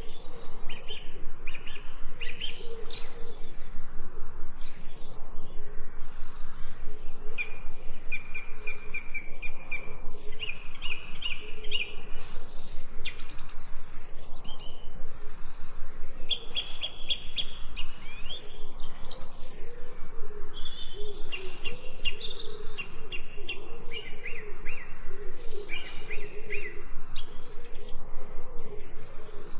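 Several birds singing and chirping at once, with quick repeated trills and short high calls overlapping throughout, over a lower wavering call.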